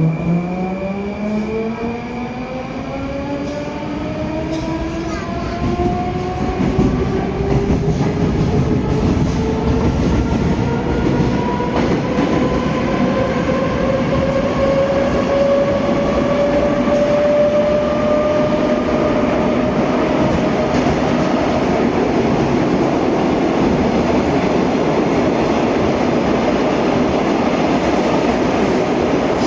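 81-740/741 Rusich metro train accelerating away from a station: its traction drive whines in several layered tones that rise steadily in pitch for about fifteen seconds, then level off as the train reaches running speed. The rumble of the wheels on the track grows louder underneath.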